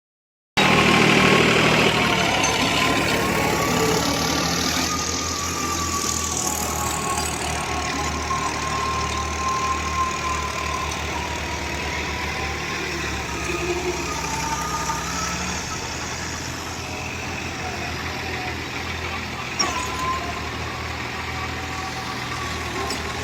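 Diesel engine of a New Holland farm tractor running steadily, with a thin wavering whine above the engine note. It starts suddenly about half a second in and is loudest over the first few seconds before it settles.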